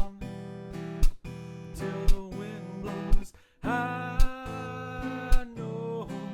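Acoustic guitar strumming in an instrumental passage of a song, with a sharp accent about once a second. The sound briefly drops out a little past the middle.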